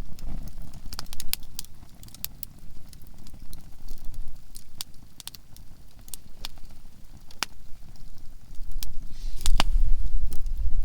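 Softwood (conifer) firewood burning, crackling with sharp pops scattered irregularly through, the loudest about nine and a half seconds in. A low rumble swells near the end.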